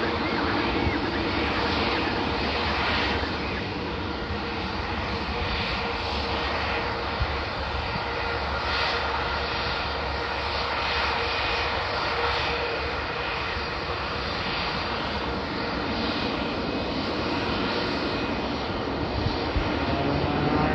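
Beech C-12U Huron's twin turboprop engines running steadily, with a faint steady whine over the noise.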